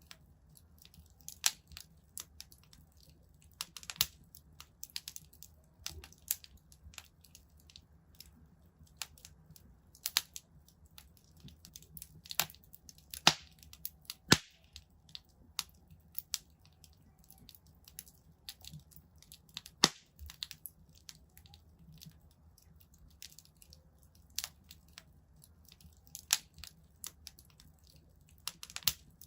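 Wood fire crackling in a fireplace: irregular sharp pops and snaps, some louder than others, over a faint low hum.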